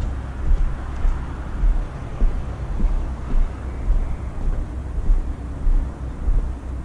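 A vehicle engine running with a steady low rumble, along with uneven low buffeting.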